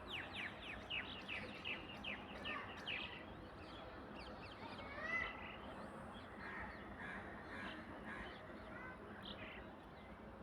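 Birds calling: a quick series of short, sharp calls falling in pitch, about three a second for the first few seconds, then a few scattered calls, faint over a low background hiss.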